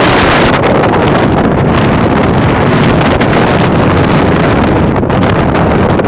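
Strong typhoon wind buffeting the microphone: loud, steady wind noise with deep rumbling gusts.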